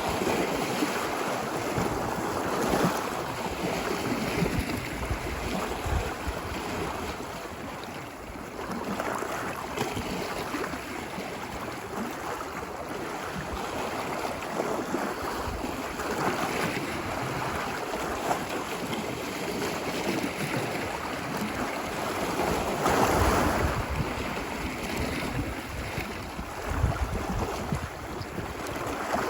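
Ocean waves washing ashore on a beach, the surf swelling and easing every few seconds, with wind buffeting the microphone.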